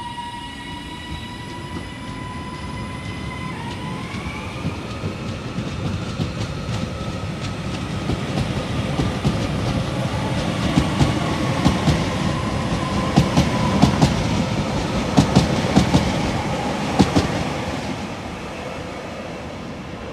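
A train running through the station, with a steady high whine that steps up in pitch about three and a half seconds in. The rumble grows louder, with the wheels clicking over the rail joints in quick groups, loudest about three quarters of the way through, then fading as it goes away.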